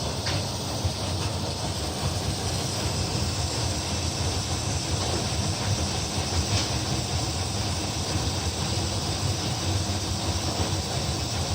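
Air conditioner running: a steady rush of air with a low hum, even throughout.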